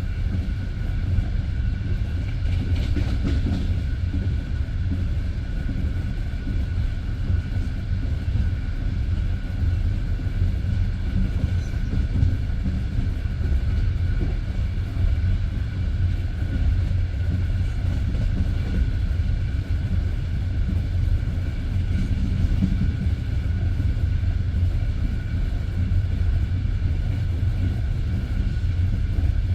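A passenger train carriage rolling along the rails at speed, heard from inside the carriage: a steady low rumble of the wheels on the track with a faint steady high hum over it.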